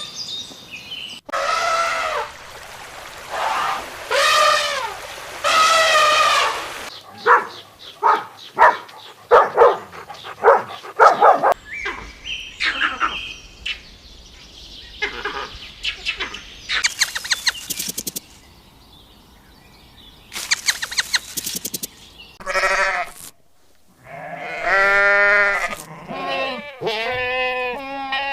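A run of different animal calls, starting with three long wavering bleats typical of a goat, followed by quick short calls and high-pitched cries, with more wavering calls near the end.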